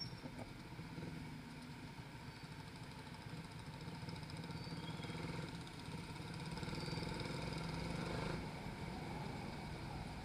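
Suzuki Raider 150 Fi motorcycle's single-cylinder engine running while the bike rides slowly and picks up speed. The engine note builds for a few seconds, then drops suddenly about eight seconds in.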